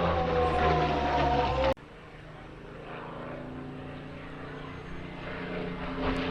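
A loud sound with slowly falling tones cuts off abruptly under two seconds in. Then a piston-engined propeller aircraft's drone grows steadily louder as it approaches.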